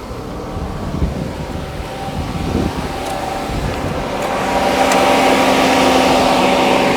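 A 2007 GMC Yukon idling, with a steady whirring fan. The whir grows louder about four seconds in and then holds. Low, uneven rumble in the first few seconds.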